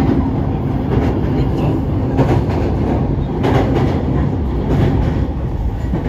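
Running noise of a train heard from inside the carriage: a steady low rumble of wheels on rail, with a clack every second or so as the wheels pass over rail joints, while it crosses a steel truss bridge.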